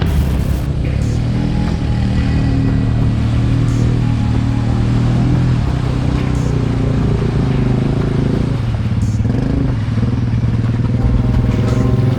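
ATVs driving through muddy water, their engines running steadily.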